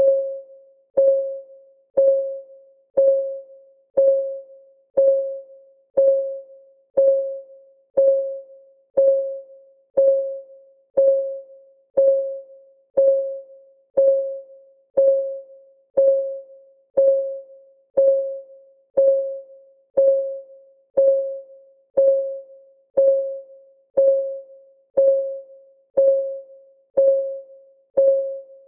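Clock ticking steadily, one tick per second, each tick a short pitched click that rings out briefly.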